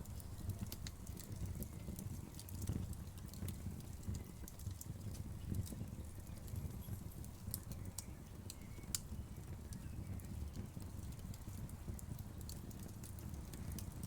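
Wood fire crackling: frequent irregular sharp pops and snaps over a steady low rumble of the burning.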